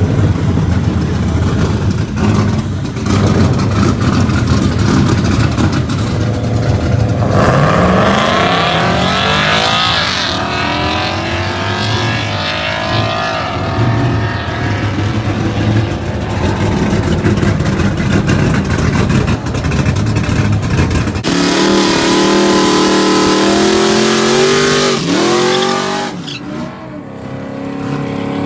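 Drag-racing truck engines running hard at full throttle. The pitch climbs as a vehicle accelerates and drops sharply at gear shifts. A different engine note takes over partway through.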